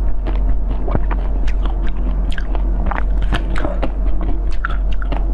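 Close-miked chewing of a mouthful of blue jelly-type dessert: a dense, irregular run of mouth clicks, several a second, over a steady low hum.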